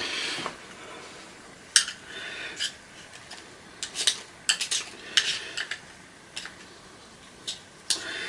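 Irregular sharp clicks and clattering of hard plastic parts being handled and pried at: the plastic coil mounts of a vacuum cleaner motor being worked apart, with short scraping sounds between the clicks.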